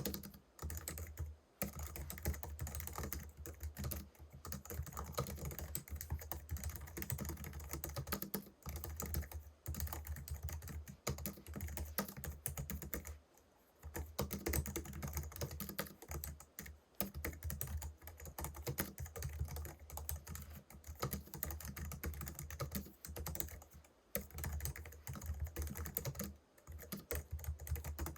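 Continuous typing on a Logicool (Logitech) MX Keys Mini, a low-profile scissor-switch (pantograph) keyboard: a fast run of light key clicks with a few brief pauses, the longest about thirteen seconds in.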